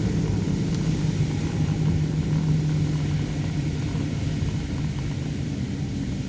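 A car's engine and road noise running steadily: a low drone with a steady hum and no sharp sounds.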